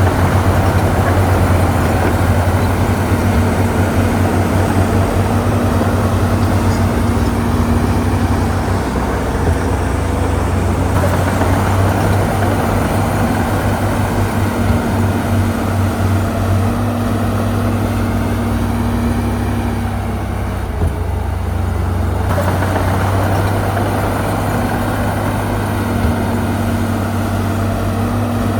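Diesel engine of heavy earthmoving machinery running with a steady low drone. The sound changes abruptly twice, about 11 and 22 seconds in.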